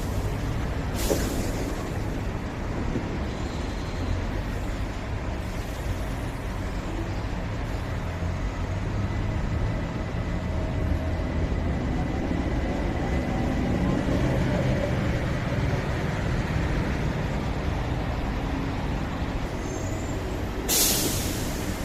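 Bombardier TE-12 light rail train running with a steady low rumble and a faint whine, with a short burst of air hiss about a second in and another near the end.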